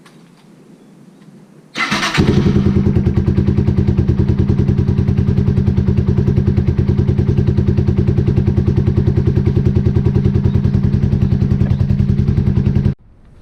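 Yamaha TW225's single-cylinder four-stroke engine starting about two seconds in, catching after a brief burst of cranking, then idling loudly with an even, rapid beat. It cuts off abruptly near the end.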